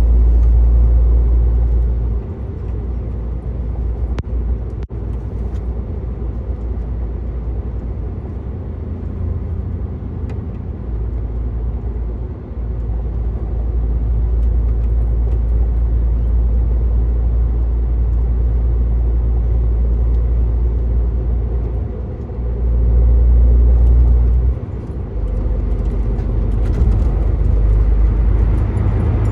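Truck engine and road noise while driving: a steady low rumble that swells louder briefly near the start and again about three quarters of the way through.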